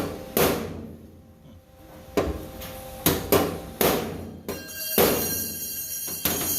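Hammer blows on a sheet-steel truck floor pan, about nine irregular strikes as the panel is knocked down into place for tack welding. In the second half the struck sheet metal rings with a bright, lingering tone.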